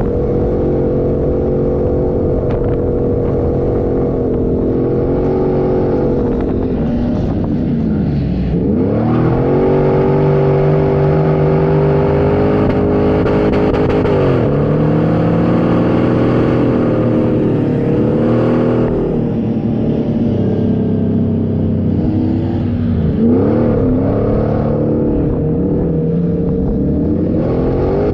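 A 4x4's engine running hard under steady load, its pitch dipping sharply and climbing back up about three times as the revs fall and rise.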